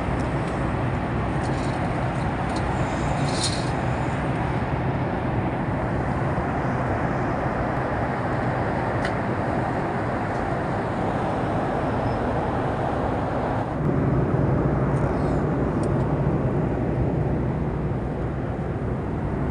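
Airliner cabin noise during descent: a steady rush of jet engines and airflow. About two-thirds of the way through it steps up, louder and deeper.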